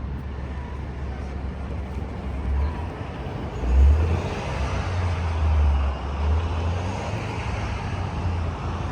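Wind gusting on the microphone with a deep rumble that swells and falls, over the steady hiss of traffic on wet road. The hiss grows stronger about halfway through.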